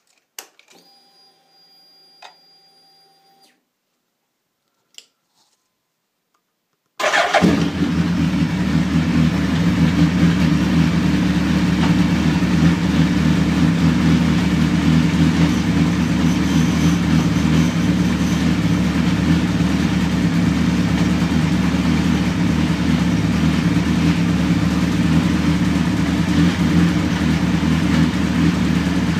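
A faint whine for the first few seconds and a single click, then about seven seconds in the Suzuki Hayabusa's inline-four engine starts and settles into a steady idle.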